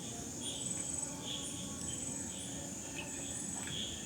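Crickets chirping: a steady high trill, with a lower chirp repeating a little more than once a second.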